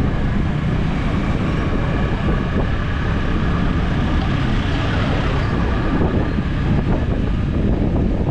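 Steady wind buffeting the microphone over the running of a motorcycle on the road.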